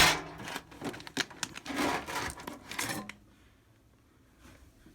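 A sharp knock at the start, then about three seconds of rustling with scattered light clicks, as of objects being handled; it falls quiet for the last couple of seconds.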